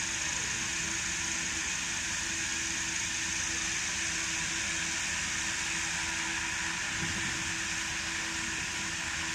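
GMC Yukon engine idling steadily after the repair for its rough idle, with a steady hum that stops shortly before the end.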